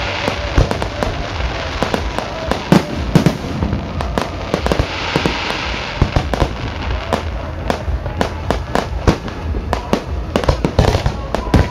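Fireworks display going off continuously: many sharp bangs and pops in quick, irregular succession, with hissing crackle near the start and again about five seconds in.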